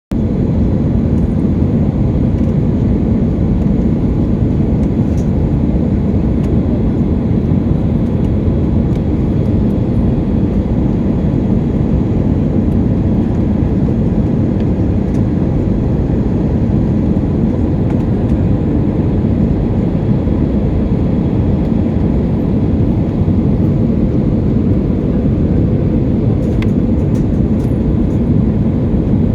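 Steady low roar inside an airliner cabin: engine and airflow noise, unchanging throughout, with a few faint clicks near the end.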